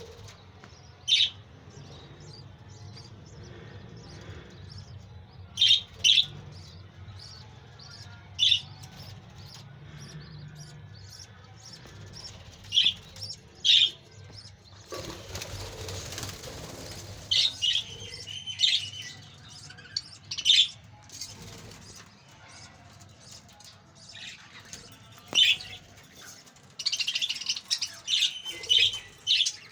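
Budgerigars chirping in short, sharp calls, some single and some in a denser flurry near the end, with a brief rustle of flapping wings about halfway through, over a low steady hum.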